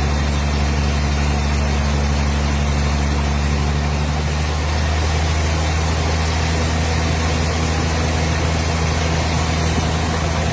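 A steady motor or engine hum running at constant speed, its pitch shifting slightly about four to five seconds in.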